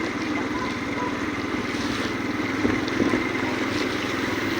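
A vehicle engine running steadily while riding, with fast even firing pulses and a steady hum under wind and road noise.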